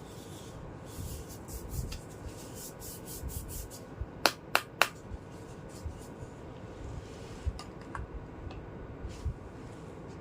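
Small plastic toy kitchen pieces being handled, with light rubbing and a run of quick little clicks, then three loud sharp plastic clicks in quick succession about halfway through, and a few scattered lighter clicks after.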